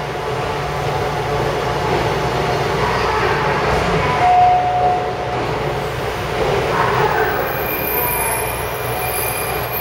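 JR Hokkaido 711 series electric train pulling into the platform and braking, a steady rumble of wheels on rail with a short high squeal about four seconds in.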